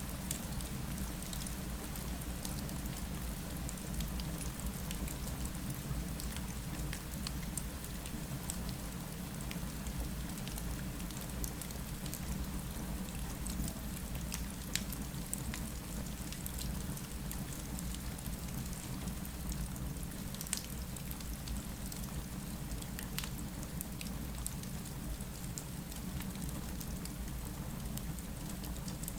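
Steady rain falling, with scattered small sharp crackles and pops from a wood fire throughout.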